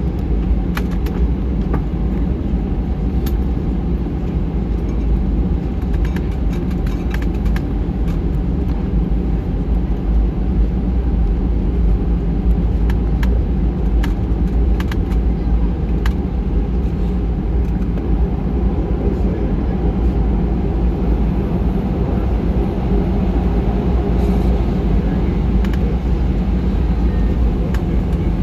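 Steady low rumble of an Airbus A319's cabin noise, with scattered light clicks and rattles.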